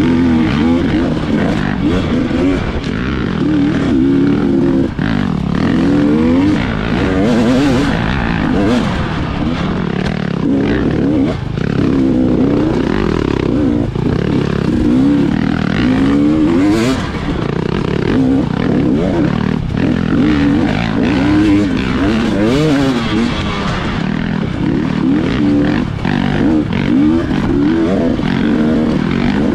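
Dirt bike engine running hard, its revs rising and falling constantly with throttle and gear changes, with frequent knocks and clatter mixed in.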